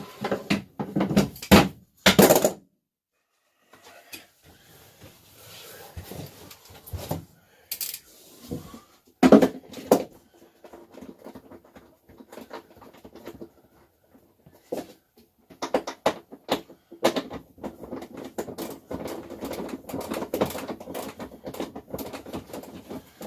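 Knocks and clatter of hand tools and metal hardware, then a long run of rapid clicking in the second half: a socket ratchet tightening the nuts on the toilet's floor bolts.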